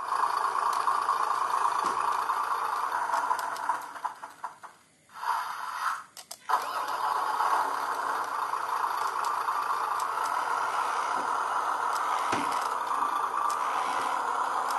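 Motor of a DIY RC truck running with a steady whine and rattling from the body. It cuts out from about four to six and a half seconds in, then starts up again.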